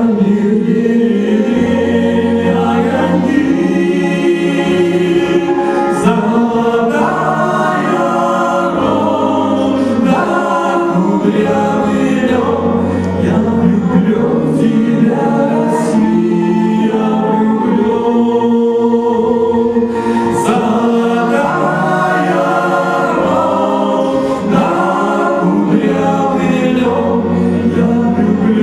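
Cossack folk song ensemble singing as a choir in several voice parts, with sustained low bass notes under the melody.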